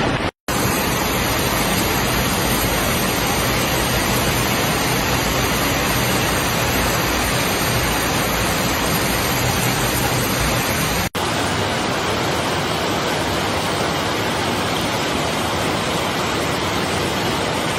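Steady, loud rushing of water, with a brief dropout just after the start and an abrupt cut to a similar rushing sound about 11 seconds in.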